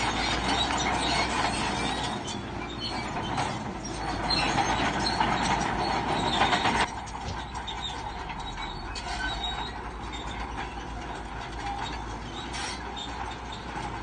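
Crawler bulldozer working, its steel tracks clanking and squealing over the engine. The sound is loud for the first half and drops off suddenly about seven seconds in, then runs on more quietly.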